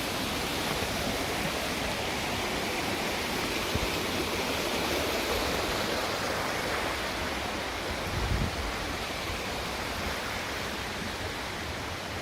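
Steady rushing of falling water, like a forest waterfall or fast stream, with a brief low thump about eight seconds in.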